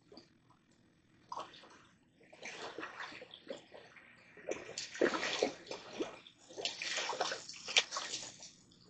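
Water splashing and sloshing in irregular bursts, faint at first and loudest in the second half.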